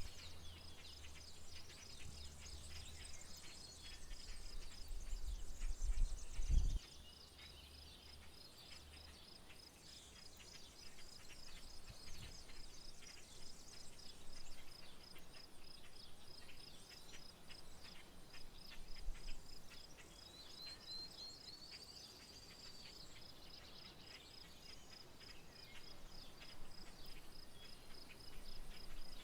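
An insect trills steadily in rapid, even pulses, with scattered bird chirps over it. A low rumble fills the first several seconds and cuts off suddenly.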